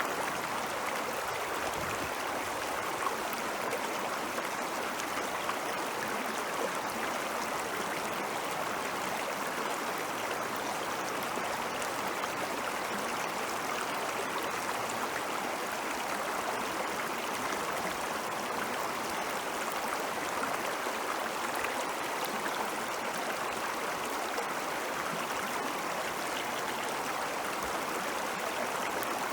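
Meltwater stream flowing steadily: a continuous even rush of running water with fine splashing and trickling.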